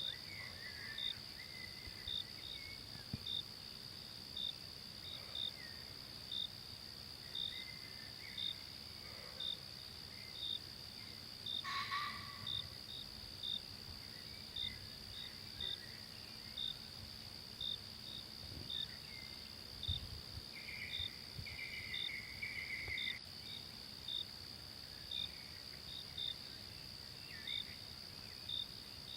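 Forest insect chorus: a steady high-pitched insect drone with a cricket chirping regularly about once a second. A few faint calls come and go, and there is one brief louder sound about twelve seconds in.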